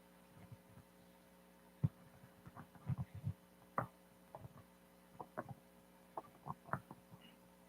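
Faint steady electrical hum with scattered small clicks and knocks, about fifteen irregular taps over several seconds, like handling noise near a microphone.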